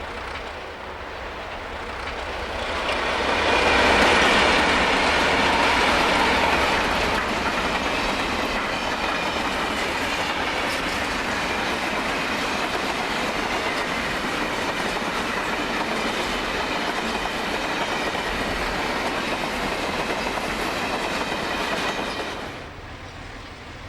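Diesel-hauled freight train passing: the sound builds to its loudest about four seconds in as the locomotive goes by, then the wagons roll past steadily with wheel clatter on the rails. It drops away suddenly near the end.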